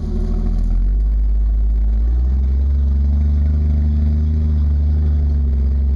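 Jeep engine running steadily, its pitch rising a little about two seconds in and then holding.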